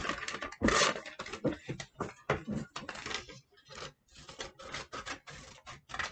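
Craft materials rustling and scraping as they are handled and cut to shape. Many irregular crackles and scrapes, busiest in the first half and sparser toward the end.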